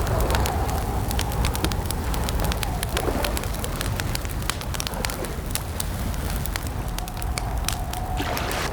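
Campfire crackling with frequent sharp pops and snaps over a low, steady rumble. A faint steady whistle-like tone sounds at the start and again near the end.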